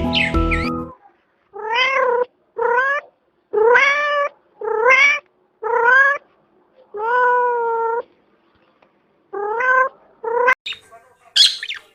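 Domestic cat meowing repeatedly: about eight separate meows, each rising in pitch, with one longer, drawn-out meow in the middle. A brief shrill, high call comes near the end.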